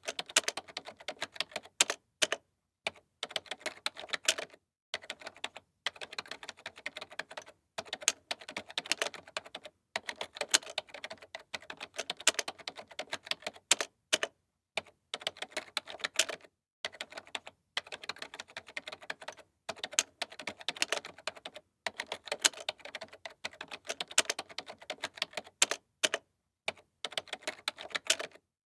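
Typing on a computer keyboard: fast runs of key clicks in bursts of a second or two, with short pauses between them and louder single strokes standing out now and then.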